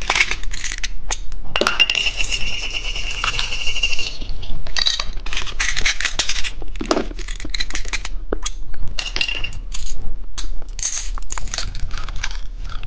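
Small plastic candy toy and its wrapper handled at close range: crinkling, taps and clicks, with a thin high steady tone lasting about two seconds near the start.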